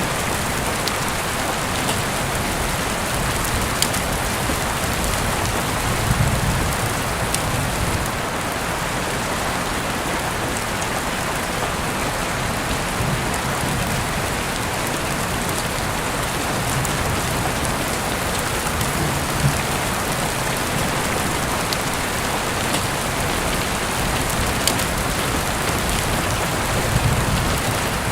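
Heavy rain falling steadily, heard through an open window, with scattered sharp drip ticks. There is a low rumble about six seconds in and again near the end.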